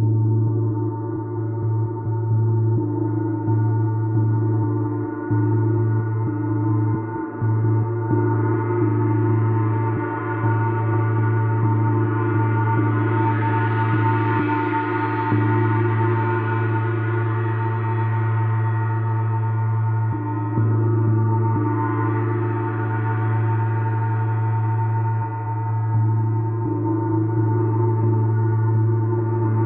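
Gong played continuously in a gong bath: a sustained low hum under many ringing overtones, which swell brighter twice, about halfway through and again a little later.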